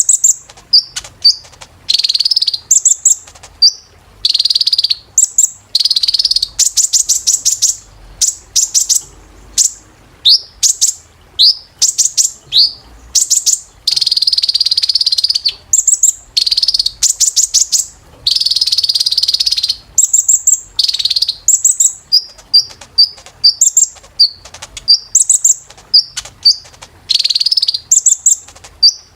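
Kolibri ninja sunbird singing: a fast run of high, thin chirps and short notes, broken by several dense trills about a second long.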